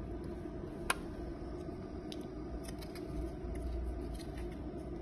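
Light scattered clicks and ticks of hard plastic being handled and trimmed, with one sharper click about a second in, over a steady low hum. The ultrasonic cutter's high whine is not running.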